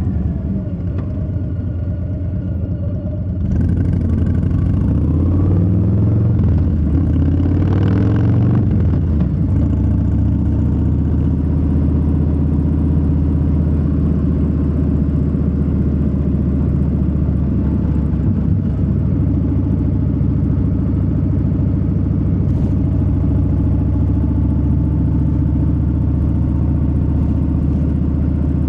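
Harley-Davidson Low Rider S's Milwaukee-Eight 117 V-twin running under riding, heard from the saddle. About three and a half seconds in the throttle opens and the revs climb for a few seconds, then the engine settles into a steady cruise.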